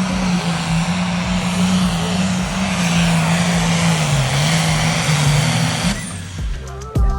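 A pulling vehicle's engine running hard with a loud, steady drone and a haze of exhaust noise. Its pitch sags briefly about four seconds in, and the sound cuts off abruptly about six seconds in.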